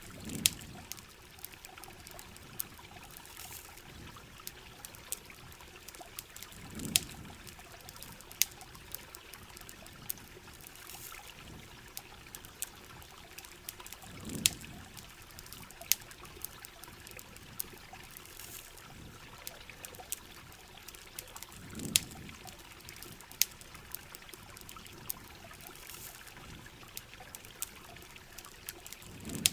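Steady heavy rain with water trickling and pouring, over a campfire crackling in sharp, scattered pops. A low muffled swell comes back about every seven and a half seconds.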